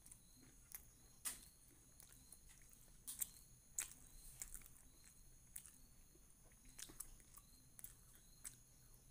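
Close-up mouth sounds of a person eating a mouthful of rice and chicken by hand: chewing with sharp wet lip smacks, about one a second.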